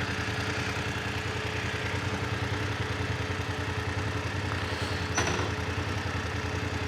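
Motorcycle engine idling steadily, with a brief click about five seconds in.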